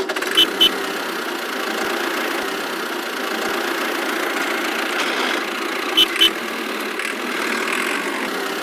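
Small motor running steadily, with two pairs of short high blips, one near the start and one about six seconds in.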